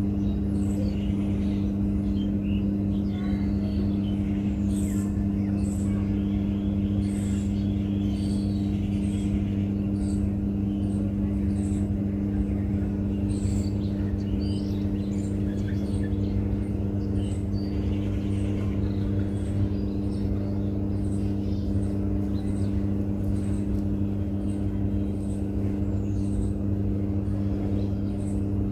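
A steady mechanical hum held on two low tones with a low rumble beneath, unchanging throughout, with short high chirps scattered over it.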